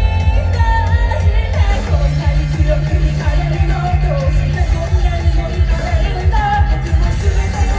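Live band music with a voice singing over a pulsing beat and heavy bass, a low bass note held for a couple of seconds in the middle.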